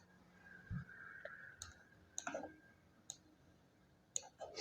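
A few faint, scattered computer mouse clicks.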